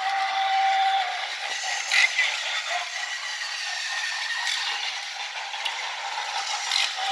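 Battery-powered Tomy Plarail C62 toy steam locomotive running on plastic track: a steady plastic rattle of the motor and wheels, with a few louder clicks. A steady electronic tone from its sound unit stops about a second in.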